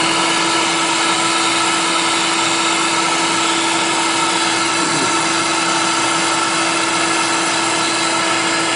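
Vacuum cleaner running steadily with a constant motor whine while sucking soot and debris out of a furnace's fire-tube holes.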